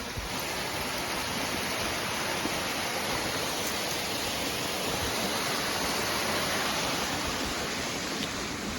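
Steady rushing of a small waterfall on a creek running high after heavy rain.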